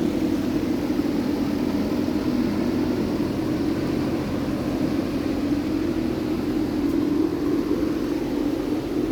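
Steady machine drone with an airy hiss, unchanging throughout: air-moving equipment running in a paint shop.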